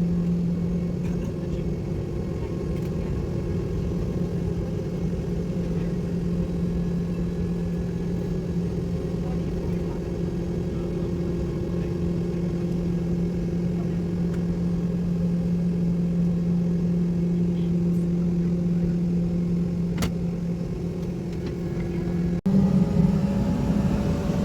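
Airliner cabin noise: the engines run with a steady low drone and hum. Near the end, after an abrupt cut, a rising whine comes in as the engine pitch climbs.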